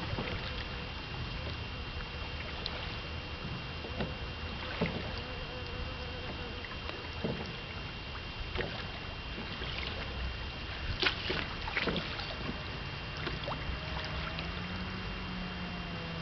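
A small boat on the water: a steady low rumble with scattered knocks and small splashes. About two-thirds of the way through, a faint steady hum starts and steps up slightly in pitch.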